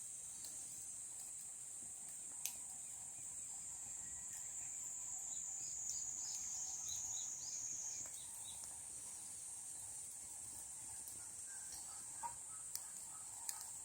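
Steady high-pitched drone of an insect chorus, crickets or similar, with a cluster of short bird chirps in the middle and a few sharp clicks near the end.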